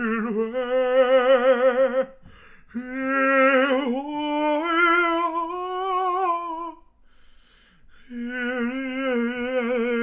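A solo voice sings long wordless notes with a wide vibrato, in three drawn-out phrases with short breaths between them, about 2 s and 7 s in.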